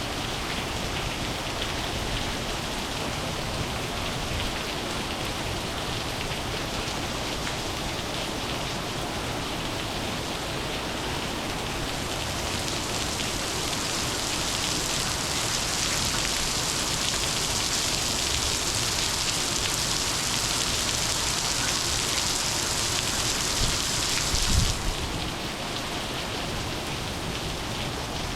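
Heavy monsoon rain falling steadily, an even hiss. A little before halfway a brighter, hissier layer of rain builds up, then cuts off suddenly near the end, just after a couple of low thumps.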